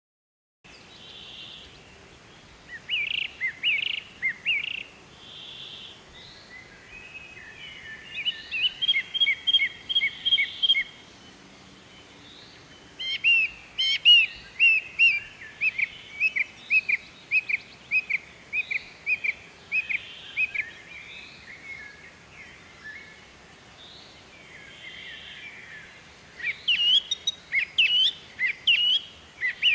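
Wild songbirds calling in runs of quick, high chirps lasting a few seconds each, with quieter pauses between the runs. The calling begins after a brief silence.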